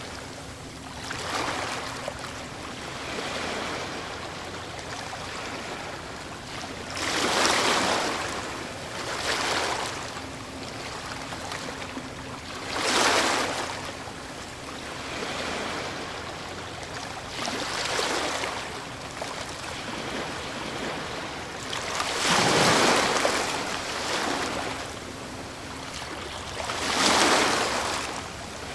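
Ocean waves breaking on a shore: a steady wash of surf with a louder wave crashing and fading every few seconds, four of them standing out above the rest.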